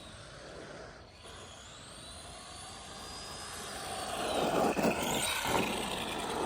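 ARRMA Granite Boost RC monster truck's brushed 550 motor and drivetrain whining as it drives, faint at first, then louder from about four seconds in, with the pitch rising and falling as it speeds up and slows.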